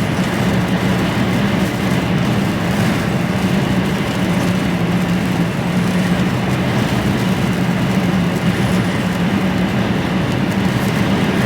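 Inside an HGV lorry cab while cruising: a steady drone from the truck's engine under a constant rush of road and wind noise.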